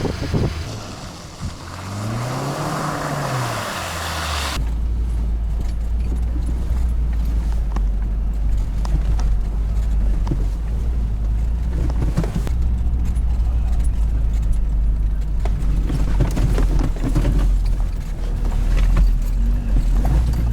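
Cabin noise inside a UAZ off-road vehicle on the move: a steady low engine and road drone. In the first few seconds a different sound, a low tone rising and then falling in pitch, cuts off suddenly, and the drone takes over.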